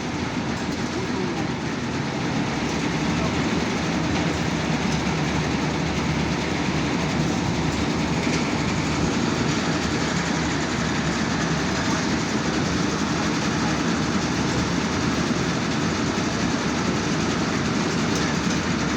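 Kartar combine harvester running: its diesel engine and machinery make a loud, steady noise that grows slightly louder a few seconds in.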